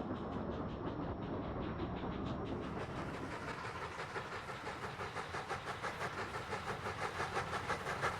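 Steam locomotive working with a train, a fast even beat of exhaust chuffs over a hiss, growing louder in the last few seconds.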